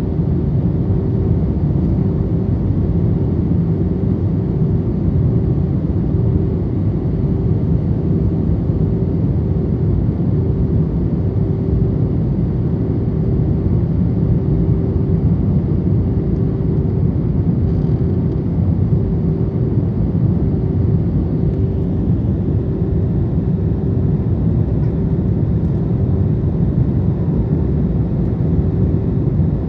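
Steady cabin noise inside an Airbus A321 airliner in descent: a constant low rumble of engines and airflow with a faint steady hum above it.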